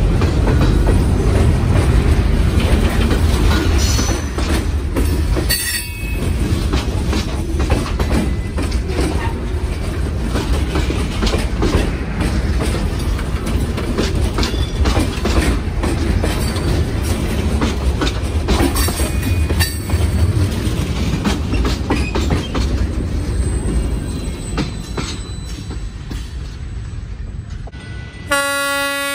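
A freight train rolls past with a heavy rumble, its wheels clicking over the rail joints and squealing at times. The rumble eases off toward the end. About a second before the end, a diesel locomotive's multi-chime horn starts to blow, steady and loud.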